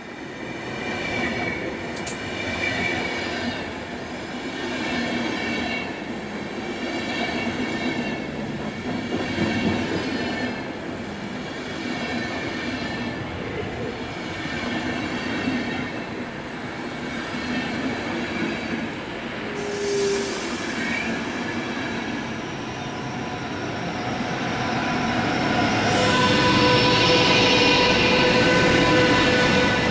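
A DB Intercity train's coaches rolling along the platform, with a rhythmic clatter of wheels over the rail joints and high wheel squeal. Near the end the DB class 101 electric locomotive pushing at the rear passes close, and its steady electric whine makes it the loudest part.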